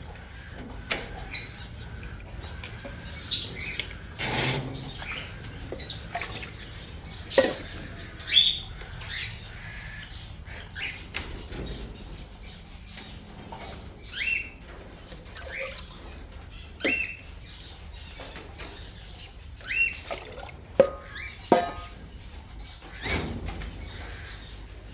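Small parrots in an aviary giving short chirping calls every second or two, among scattered clicks and knocks.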